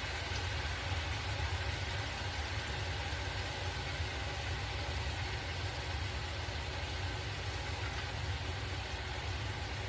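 Chicken and stir-fry vegetables sizzling quietly in a pan under a steady low hum.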